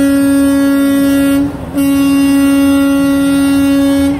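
A truck's air horn sounding a long, loud, steady blast that breaks off about a second and a half in, then a second long blast until near the end.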